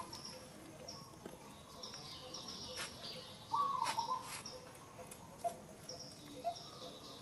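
Birds calling: one short call falling in pitch a little over three seconds in, among scattered high chirps and a few faint clicks.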